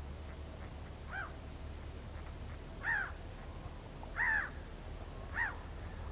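Whooper swan calling four times, short arched trumpeting notes about a second apart, the third the loudest.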